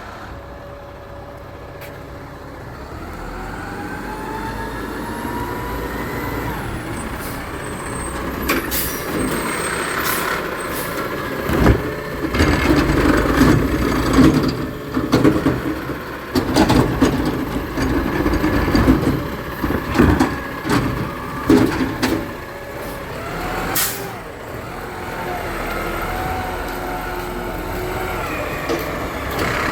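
Garbage truck at work: its diesel engine rises in pitch as it draws up, air brakes hiss several times, and through the middle comes about ten seconds of loud, irregular clanking and banging as a bin is handled, before the engine settles back to a steady run.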